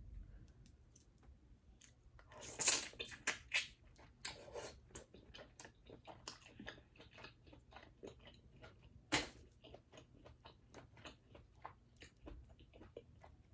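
Close-miked wet chewing and mouth smacking of boiled mussels. There is a louder run of smacks about two and a half seconds in and a single sharp click about nine seconds in.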